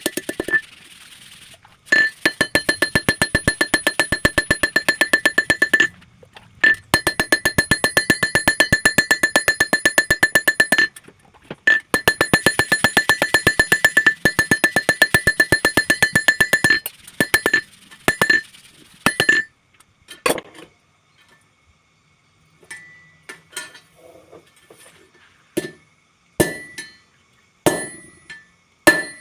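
Hammer blows on steel over an anvil while forging a blade from car leaf-spring steel, each blow ringing out with a bright metallic tone. There are three long runs of fast, evenly spaced blows, then slower scattered single strikes with pauses between them.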